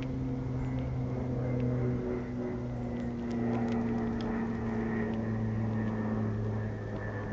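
A motor running steadily with a low, even hum whose pitch drifts slightly, with a few faint ticks over it.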